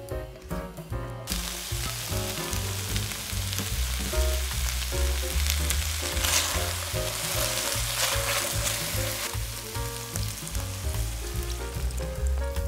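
Beef and vegetables sizzling in a hot stainless steel sauté pan. The sizzle starts suddenly about a second in, is loudest in the middle and eases near the end. Background music with a steady bass line plays under it.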